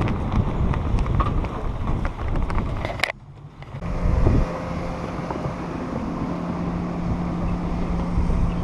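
Wind buffeting the microphone on a boat running through rough water. About three seconds in the sound cuts off, and a steady low hum of the boat's motors running follows.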